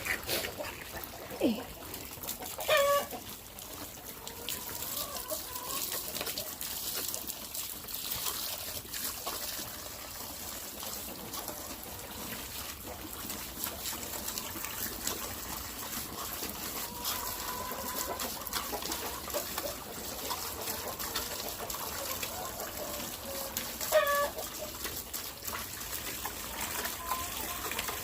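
Chickens clucking, with a few short, louder calls (about 1.5 s, 3 s and 24 s in), over a steady trickle of water running while an animal waterer is filled.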